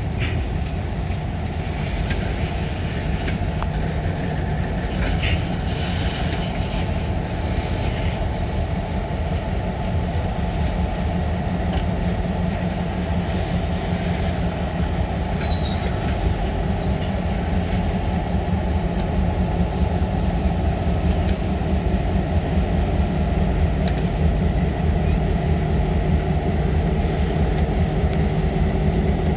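Freight train rolling along: a diesel locomotive's steady low engine sound with railroad cars on the rails, and a few wheel clicks over rail joints in the first several seconds.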